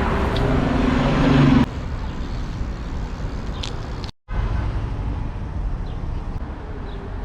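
City street traffic noise with a low rumble. A vehicle engine hum runs for the first second and a half and stops abruptly, and the sound drops out briefly about four seconds in.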